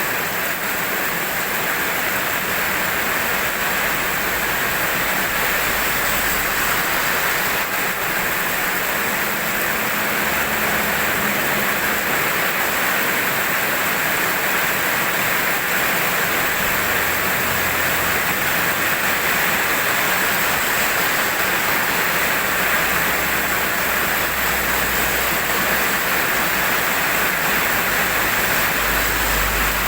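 Steady heavy rain, an even hiss of falling water with a soft low rumble underneath.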